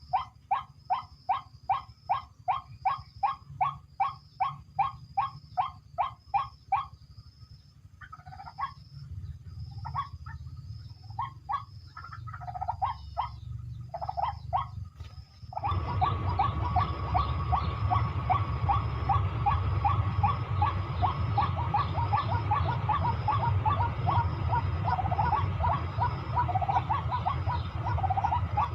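A bird giving harsh calls in a fast, steady series, about three a second, which breaks off into scattered calls. About halfway in, a louder, denser run of calls starts abruptly over a rushing hiss and keeps going.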